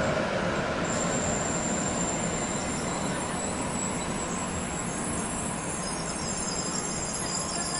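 Shinkansen bullet train running past on the tracks, a steady rumble with thin high-pitched squeals that come in about a second in and grow more numerous near the end.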